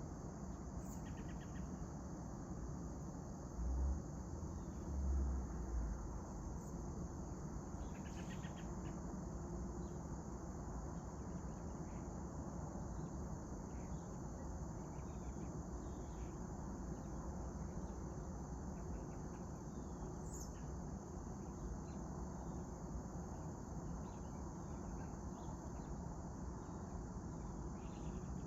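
Steady high-pitched chorus of crickets, with scattered short bird chirps over a low outdoor rumble. Two brief low thumps come about four and five seconds in.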